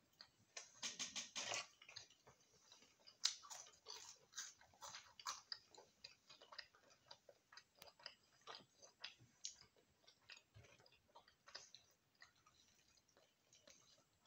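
Chewing and mouth sounds of children eating fried chicken and chips: a run of faint, short wet clicks and smacks, thickest in the first five seconds or so and thinning out after.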